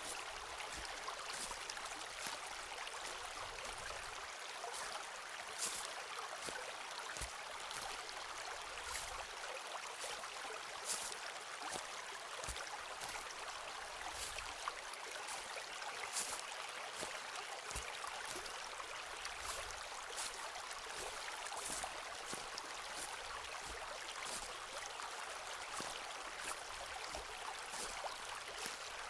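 Forest stream running steadily, with short, crisp clicks scattered irregularly over it.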